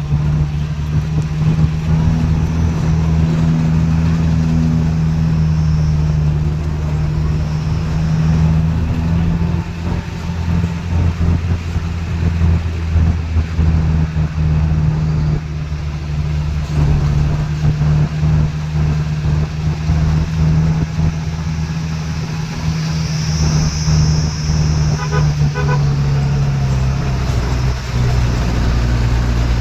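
Motor vehicle engine droning steadily as it drives, with a few short horn beeps about 25 seconds in.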